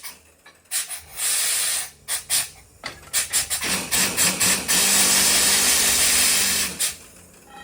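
Borewell being blown out with compressed air: loud hissing blasts of air and spray that cut off and restart several times, some brief and one longer in the middle.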